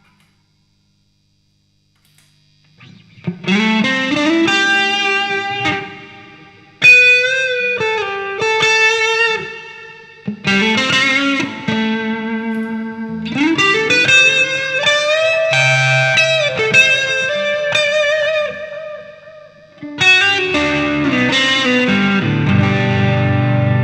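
1995 Fender Strat Plus electric guitar played through a Fractal FX8 MK2 effects processor with distortion: after a couple of seconds of silence, lead phrases with string bends and long sustained notes, turning to heavier chords near the end.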